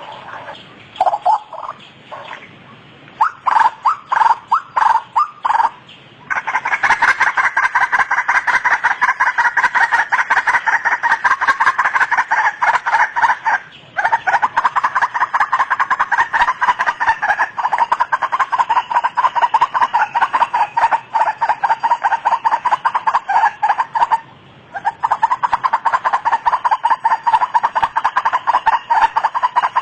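White-breasted waterhen calling: a few separate calls at first, then from about six seconds a fast, unbroken run of repeated calls, with two short breaks, one near the middle and one about two-thirds of the way through.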